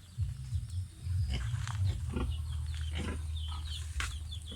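Pigs grunting and eating at their feed, with short high peeps from chicks near the end.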